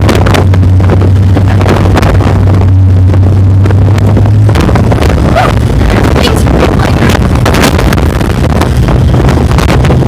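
Off-road vehicle engine running under heavy wind buffeting on the microphone, recorded so loud that it is distorted. A steady low hum gives way, about halfway through, to a rougher, broken rumble, with many knocks and rattles throughout.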